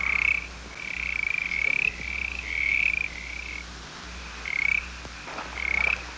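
A chorus of frogs: short trilled calls, each about half a second to a second long, repeating and overlapping one another.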